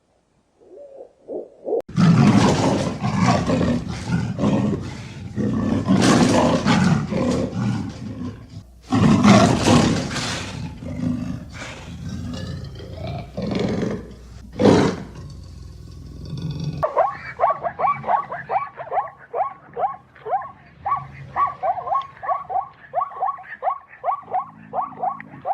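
A big cat roaring and growling in a series of loud, rough calls with short breaks. About two-thirds of the way in it cuts off and a frog takes over, croaking in a steady run of short calls, about three a second.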